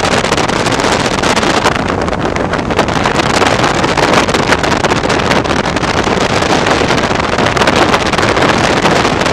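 Car accelerating hard at speed, heard from inside the cabin: a steady, loud mix of engine, road and wind noise.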